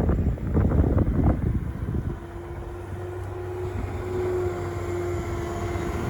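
Wind buffets the microphone for about two seconds. Then a front-end loader's diesel engine runs steadily with a held, even tone.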